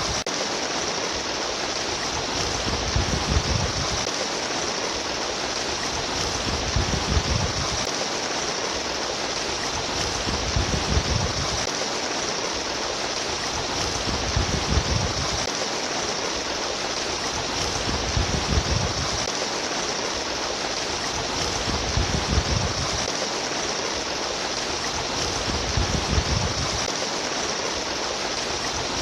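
Steady rushing and trickling stream water, with a low swell that comes and goes about every four seconds.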